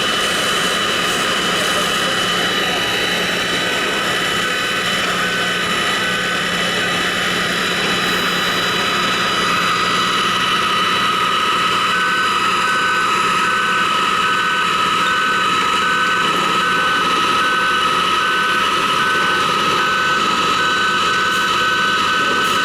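Loud, steady machinery running, with several high whining tones over a constant rushing noise; one whine grows stronger about halfway through.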